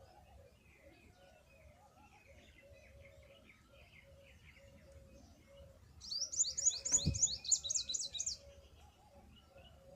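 A small bird chirping: faint chirps at first, then a loud, quick run of about a dozen high, downward-sweeping notes for a couple of seconds past the middle. A single sharp knock sounds during the run.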